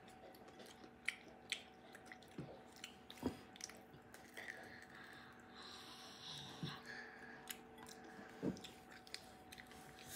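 Children chewing and biting crunchy baked tofu: faint, scattered small crunches and mouth clicks.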